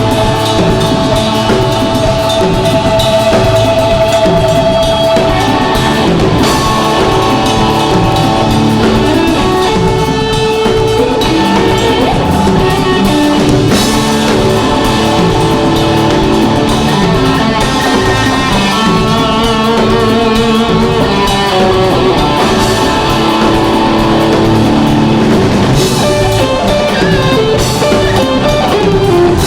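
Live rock band playing: electric guitar and drum kit with held Hammond organ chords underneath.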